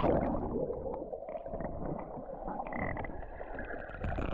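Muffled sea-water noise heard with the microphone underwater: a splash right at the start, then low churning and bubbling.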